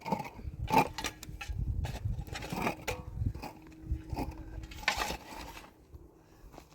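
Irregular knocks, clatters and scrapes of things being handled, several a second at first and thinning out near the end, over a low rumble.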